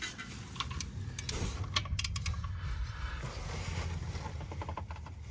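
Light metallic clicks and clinks of hand tools being worked on a car, with a quick run of clicks near the end, over a low steady rumble.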